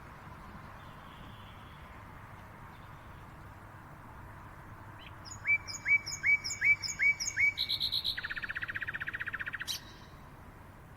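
A songbird sings one phrase: about six quick rising notes, then a fast trill that cuts off suddenly, over a steady background hiss.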